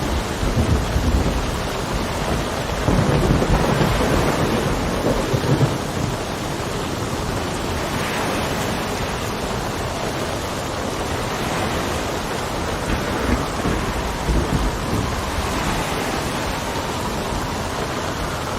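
Steady rain with low rumbles of distant thunder, strongest in the first six seconds and weaker again near the three-quarter mark.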